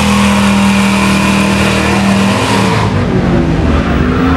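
Car engine held at high revs during a burnout, with the spinning tyres squealing. About two and a half seconds in, the revs drop and the tyre noise dies away, leaving the engine rumbling at lower, uneven revs.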